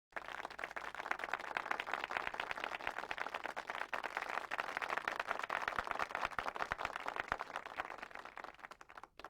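Audience applause: many hands clapping together in a dense patter that starts abruptly and dies away near the end.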